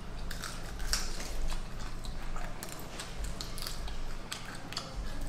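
Close-up eating sounds of someone chewing and gnawing on a fried chicken bone: irregular wet smacks and small clicks.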